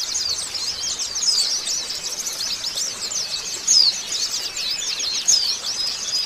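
White-eye (pleci) singing a rapid, high twittering song: a continuous stream of short chirps, with a few louder notes standing out.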